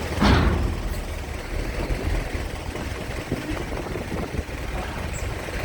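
Steady low rumble of a ferry's engines idling, with one short loud burst about a quarter second in.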